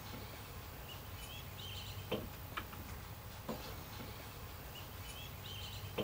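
Faint outdoor background with birds chirping on and off, and a few soft knocks around the middle.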